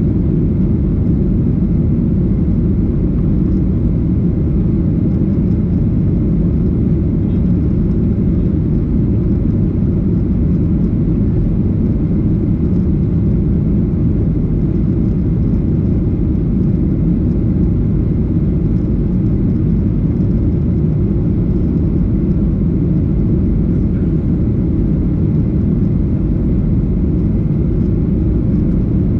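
Steady, loud low rumble of a Boeing 737-800's CFM56 jet engines and airflow, heard inside the passenger cabin.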